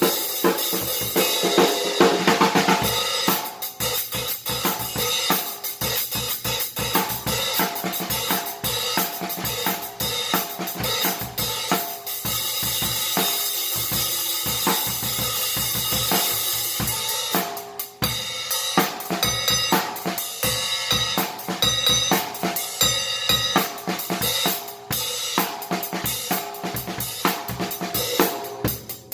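Drum kit played in a steady groove on 16-inch Paiste 2002 Sound Edge prototype hi-hats, with snare and bass drum; the cymbals wash loudly for the first few seconds and the playing dips briefly past the middle.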